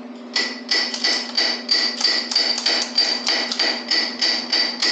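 Hammer striking metal in a steady series of blows, about three a second, each with a bright ringing ping. The blows start just under half a second in.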